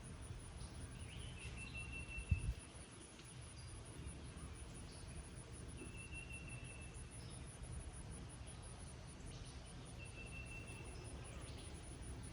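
Meadow ambience: a steady, high-pitched insect trill with a rapid pulse runs throughout, over a low rumble. A bird repeats one level whistled note three times, about four seconds apart. There is a single thump about two seconds in.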